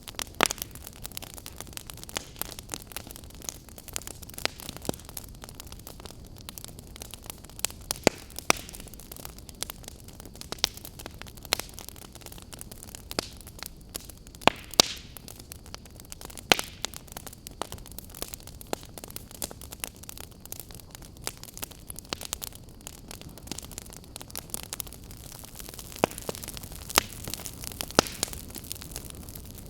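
Campfire burning, with a steady low hiss and sharp, irregular crackles and pops of burning wood.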